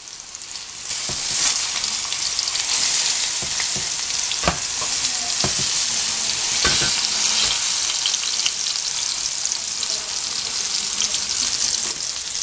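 Chicken and vegetable balls sizzling in hot oil in a nonstick frying pan, the hiss growing louder about a second in. A few utensil clicks against the pan as the balls are turned with a fork.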